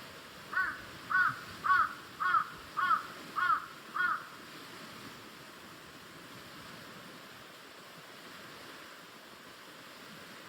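A crow cawing seven times in a row, roughly two calls a second, then falling silent about four seconds in.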